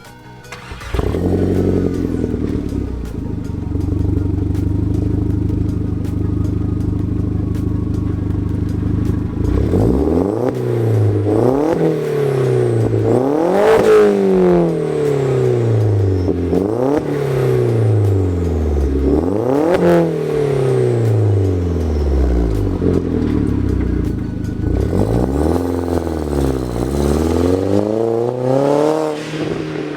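VW Jetta Mk4 1.8T turbocharged four-cylinder idling through an exhaust with no catalytic converter and no muffler, just a Vibrant resonator, then free-revved again and again, each rev rising and falling in pitch, with a quick run of revs near the end.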